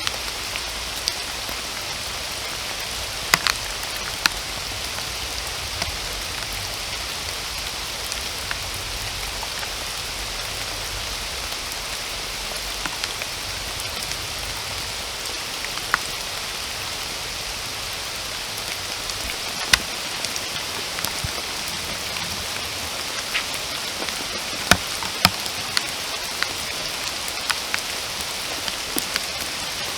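Steady rain falling, an even hiss, with louder single drops striking close by every few seconds.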